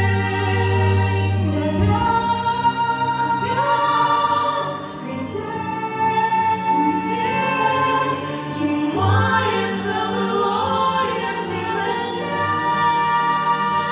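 Two voices singing a pop ballad in harmony over an instrumental backing track with a steady bass line.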